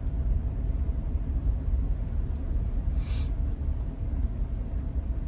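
Truck driving through flood water: a steady low rumble of engine and tyres, with a brief hiss about three seconds in.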